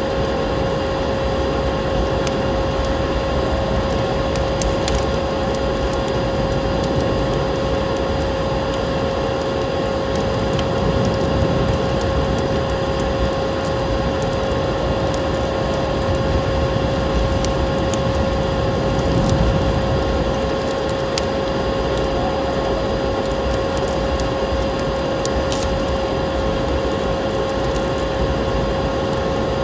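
Wood fire crackling with frequent sharp pops over a steady rush of wind, which swells briefly about eleven and nineteen seconds in. A constant pitched hum runs underneath.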